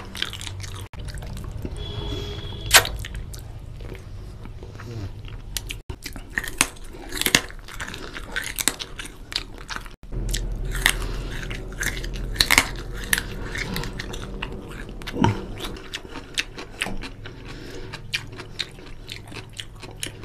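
Close-miked chewing and biting into chicken drumstick curry, with many short sharp clicks of the mouth.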